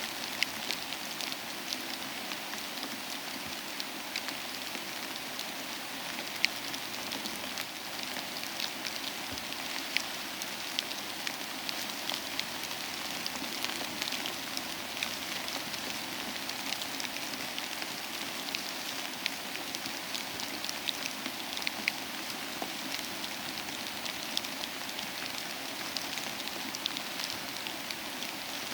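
Steady soft rain mixed with a crackling fire, with scattered sharp pops and ticks throughout.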